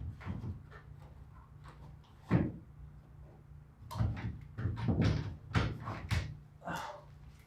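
Irregular knocks and clunks of objects being handled and set down on a workbench, with a low steady hum underneath.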